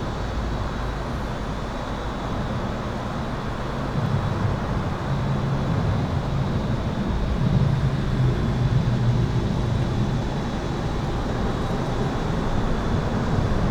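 Highway traffic heard from under an overpass: a continuous rushing rumble that swells in the middle as vehicles pass. A thin, steady high-pitched tone runs underneath the whole time.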